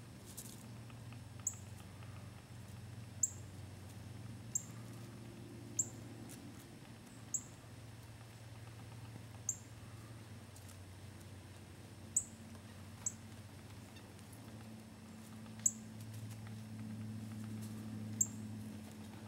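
A small bird giving short, very high chip calls, about ten of them spaced a second or more apart, over a low steady hum.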